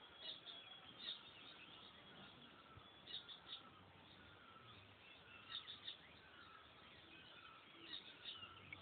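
Faint birds chirping, in short clusters of quick high notes every second or two, over a low steady background hiss.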